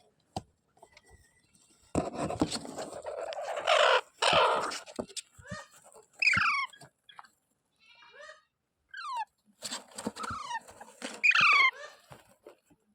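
Indian ringneck (rose-ringed) parakeet calling: a harsh, raspy screech lasting about three seconds, then short chirps and two loud shrieks that sweep downward in pitch, one a little past halfway and one near the end.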